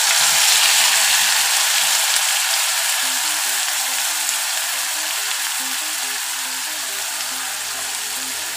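Onion and green-chilli paste sizzling in hot oil in an iron karahi, a steady hiss that slowly fades as the paste settles into the oil.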